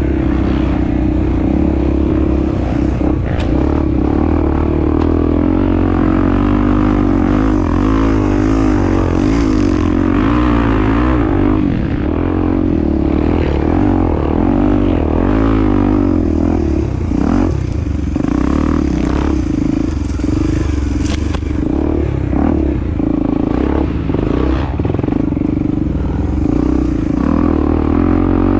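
Honda Tornado 250 enduro motorcycle's single-cylinder four-stroke engine running under way, its pitch wavering up and down with the throttle. Clattering knocks, from the bike working over rough ground, come more often in the second half.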